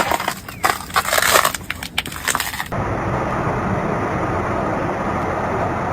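River ice grinding and breaking up, with many sharp cracks and crunches. About two and a half seconds in it cuts off abruptly, giving way to a steady rushing noise.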